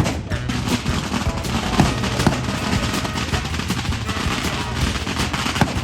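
Rapid, continuous crackle of sharp cracks from Bonfire Night fireworks or firecrackers, over music.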